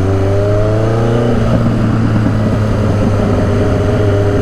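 1983 Suzuki GS1100E's air-cooled inline-four pulling under acceleration. Its pitch rises, drops at an upshift about a second and a half in, then holds and slowly climbs again.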